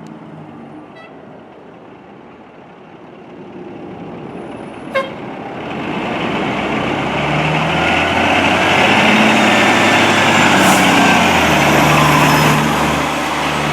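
Heavy fire apparatus engine growing steadily louder from about four seconds in, then running loud and steady as the truck nears. There is one short click about five seconds in.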